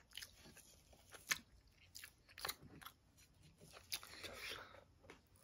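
Faint chewing and mouth noises of a person eating grilled chicken, with a few short, sharp clicks scattered through, the clearest about a second in and again about two and a half seconds in.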